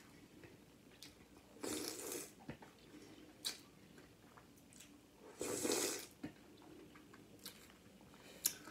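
Close-miked mouth sounds of a person chewing and biting food. There are two louder bursts, about two seconds in and about five and a half seconds in, with a sharp click between them.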